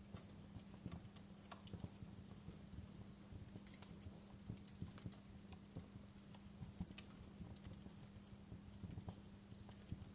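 Wood fire in a fireplace crackling quietly, with irregular small pops and snaps several times a second, over a faint steady low hum.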